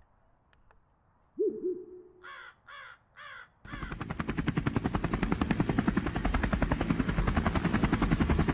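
A sudden sound about one and a half seconds in, then a crow cawing three times. Then helicopter rotor blades chop rapidly and evenly, growing louder, and cut off abruptly at the end.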